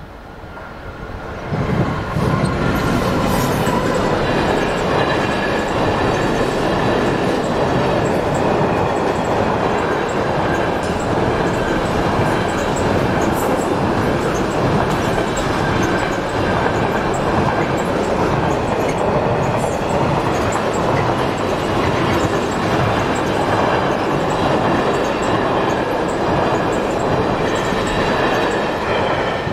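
Container freight train hauled by a Class 66 diesel locomotive passing close by. The noise comes in suddenly about a second and a half in and stays loud and steady as the wagons go by, with high steady tones of wheel squeal over it, and drops away at the very end.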